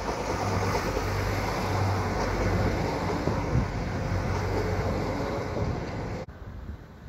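A Northern CAF Civity multiple unit passing close by, with steady wheel and rail noise over a low hum. The sound cuts off abruptly about six seconds in, leaving fainter wind noise.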